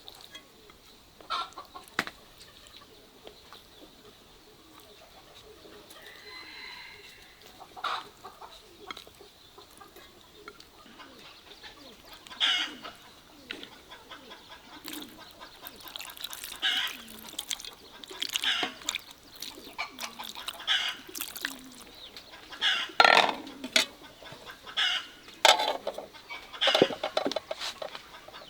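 Chickens clucking repeatedly, with the calls coming more often and louder in the second half.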